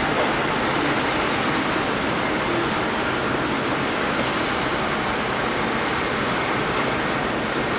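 Steady rushing cabin noise of a Boeing 787-8 Dreamliner in flight: engine and airflow noise, even and unbroken.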